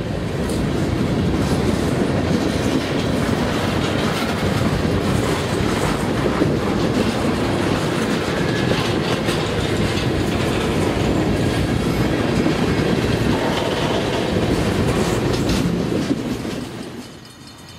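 Diesel freight locomotives pulling a train of boxcars past, with a steady low engine rumble and wheels clicking over rail joints. The sound drops away sharply near the end.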